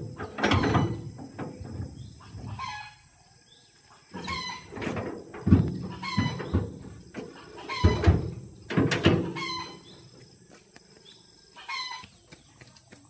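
Chickens clucking in short repeated calls, mixed with several sharp, heavy knocks, the loudest of them about five and a half and eight seconds in.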